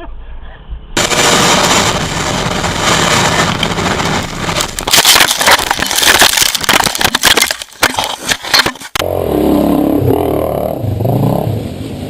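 Dirt bike engine running under heavy rushing noise, with a burst of sharp knocks and scrapes over the middle part. Near the end a different dirt bike's engine revs up and down.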